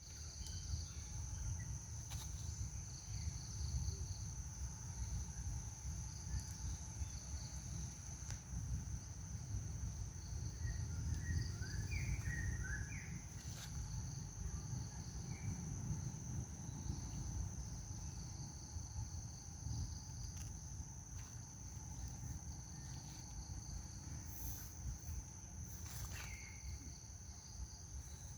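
Insects droning steadily, a high constant whine with a fast pulsing chirp beneath it, over a low rumble of wind on the microphone. A few short high chirps come about halfway through.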